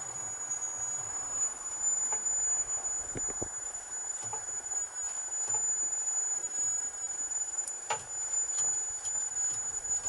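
Vehicle running, with a steady high whine and scattered light knocks, a few close together about three seconds in and another near the end.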